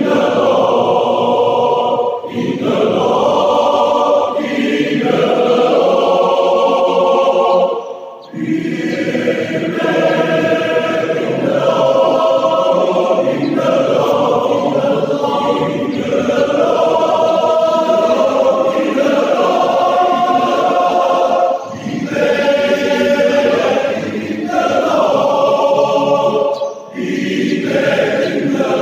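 Men's choir singing together in parts, phrase after phrase, with short breaks between phrases, the longest about eight seconds in.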